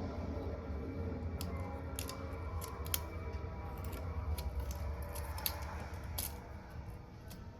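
Small sharp clicks and scraping from hand tools working on a smartphone, scattered irregularly over a steady low hum.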